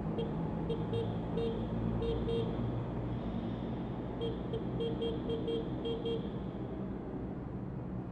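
Motorcycle engine running steadily under way, with a horn sounding two runs of short toots, the second run quicker, about four or five a second.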